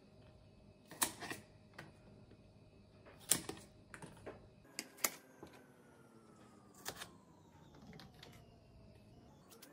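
Kitchen scissors snipping through green onion stalks: several sharp, crisp snips a second or two apart, the loudest about a second in and just past three seconds.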